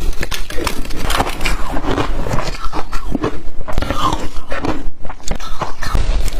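Close-miked crunching bites and chewing of blended ice, a dense run of sharp crunches.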